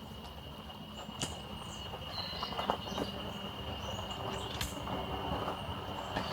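Forest ambience: scattered short bird chirps over a steady high thin whine, with a few sharp clicks or knocks, the loudest near the middle.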